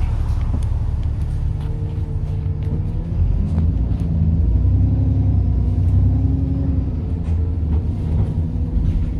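Diesel bus engine pulling, its note rising and getting louder about three seconds in, over a heavy low rumble with light rattles.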